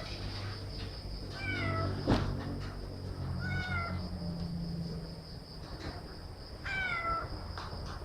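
Calico cat meowing three times, each meow sliding down in pitch, as she is about to give birth. A sharp click about two seconds in, over a steady low hum.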